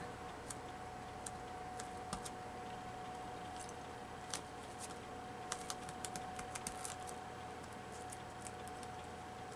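Scattered light clicks and taps as hands handle and press down glued paper cutouts on a book page, over a faint steady hum.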